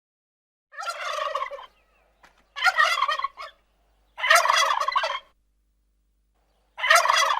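Turkey gobbling: four rapid, rattling gobbles, each about a second long, with short pauses between them.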